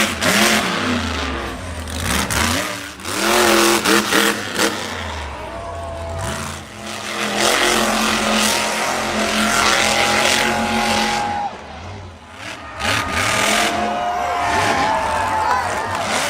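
Monster truck engine revving hard in repeated surges and easing off between them.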